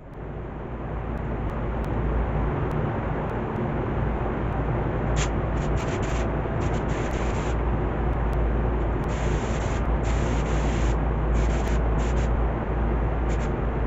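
Air spray gun spraying primer in repeated bursts of hiss, each from half a second to about two seconds long. Underneath is the steady running of an air compressor with a low hum, which builds up over the first two seconds.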